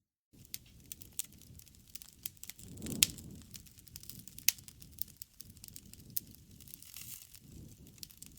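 Wood fire crackling, with irregular sharp pops over a low rush of flame. The loudest pops come about three and four and a half seconds in, the first with a brief swell of the flame's rush. The fire sound is silent for a split second at the very start.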